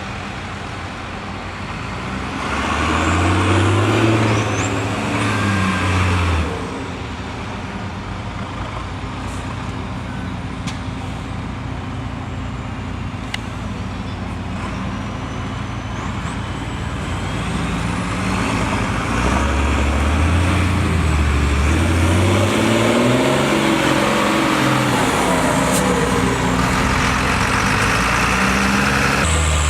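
Diesel engine of a MAN truck-trial prototype running under load, revving up about two and a half seconds in, easing off near six seconds, then revving up again from about twenty seconds in and holding there.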